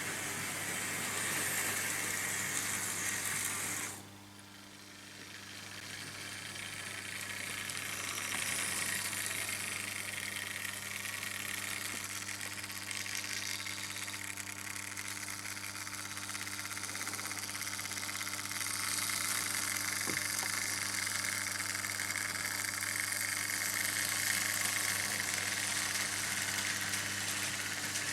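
Vintage Märklin H0 model trains running on tinplate M-track: a steady whirr and rattle of motors and wheels over a low steady hum. About four seconds in it drops away suddenly, then builds back up over the next few seconds.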